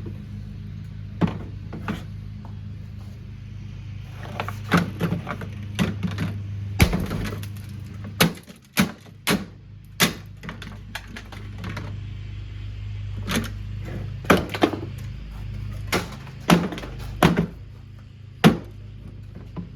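Irregular knocks and cracks as the plastic body of a Kuppet portable washing machine is struck and broken apart: more than a dozen sharp hits of varying strength, over a steady low hum.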